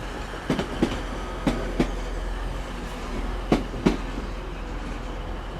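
TransPennine Express Class 185 diesel multiple unit arriving, its wheels clicking over rail joints in three quick double clicks over a low rumble. The double clicks come further apart toward the end as the train slows.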